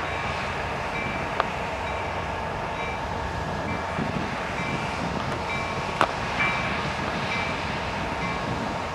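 Freight train rolling past: a steady rumble of wheels on rail, with faint short squeaks recurring about once every half to three-quarters of a second and two sharp clicks, about 1.5 s and 6 s in.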